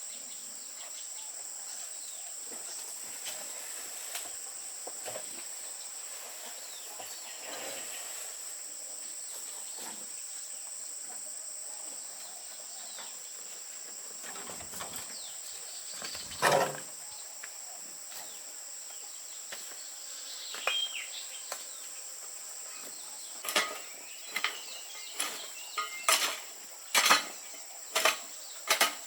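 Steady high-pitched insect chorus, crickets or similar, trilling throughout. There is a single knock about midway, and near the end a run of sharp clinks about once a second, like dishes or utensils being handled.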